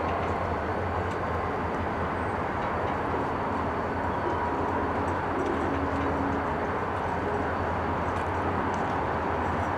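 Diesel locomotive running, a steady low drone with no breaks.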